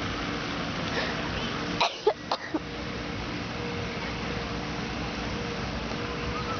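Steady outdoor background hum, broken about two seconds in by a quick cluster of three or four short, sharp sounds.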